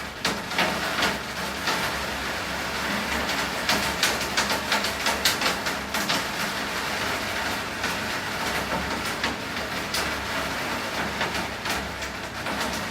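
Heavy rain falling steadily, with many sharp drip taps close by and a steady low rumble underneath.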